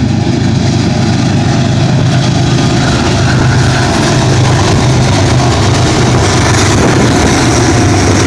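BNSF GE diesel-electric locomotives (ES44C4s and a Dash 9-44CW) running under power as they lead a stack train, a steady low engine drone that grows slightly louder.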